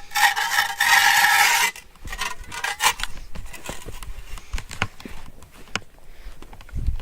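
Something being scraped along a path surface, a harsh scrape lasting nearly two seconds, then a shorter scrape and scattered light knocks and clicks.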